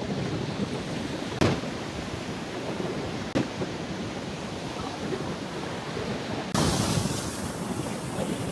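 Steady rushing noise, like wind buffeting the microphone, broken by two sharp clicks about a second and a half and three and a half seconds in. The hiss suddenly turns brighter and a little louder near the end.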